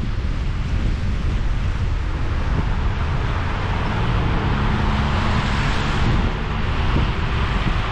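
Steady road noise from a car being driven: a low rumble of tyres and engine under a hiss, with a faint engine drone coming in about halfway through.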